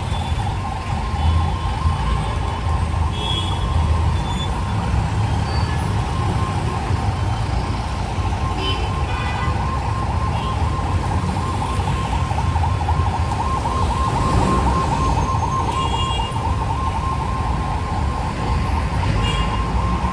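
A siren-like tone holding one pitch with a fast warble, over a constant low rumble of street traffic.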